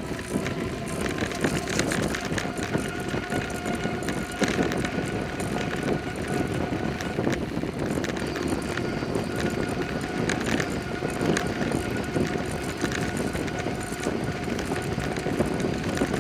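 Bicycle riding along: tyre noise and small rattles and knocks from the bike over the road surface, with a faint steady whine throughout.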